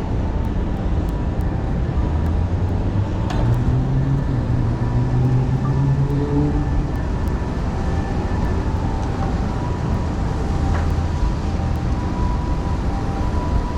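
Steady low rumble of vehicle traffic, with one engine rising in pitch about four seconds in.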